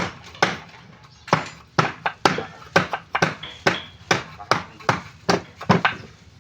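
A hand tool striking timber in steady repeated blows, about two a second, as in hammering or chopping during raft building.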